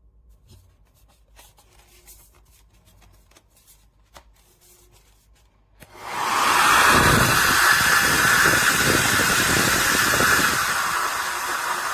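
A few faint handling clicks, then about halfway through an 1800 W ionic hair dryer switches on and blows steadily: a loud rush of air with a high motor whine.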